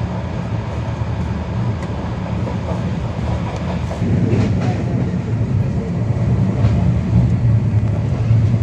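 Coimbatore Shatabdi Express train running along the track: a steady low rumble of wheels on rails, growing louder about four seconds in.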